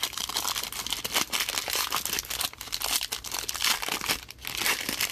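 Plastic wrapping on trading card packaging crinkling and tearing as it is handled and pulled open, a dense steady crackle.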